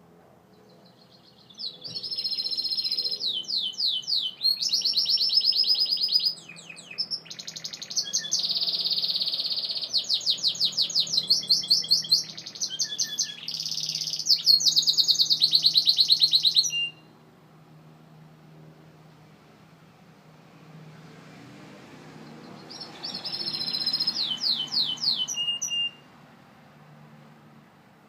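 Gloster canary singing: a long run of rapid high trills and rolls lasting about fifteen seconds, then a pause and a shorter trilled phrase near the end.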